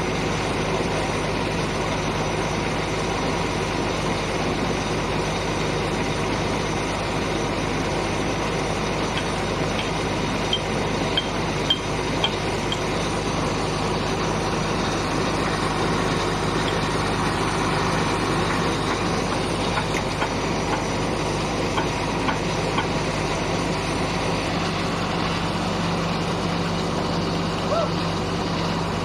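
Heavy machinery's diesel engine running steadily, with a few faint high ticks about ten to thirteen seconds in.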